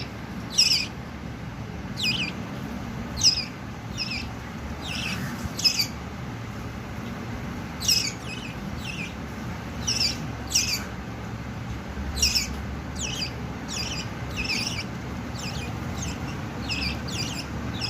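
Birds calling with short, high, falling chirps, repeated about once a second and sometimes in quick pairs, over a steady low rumble.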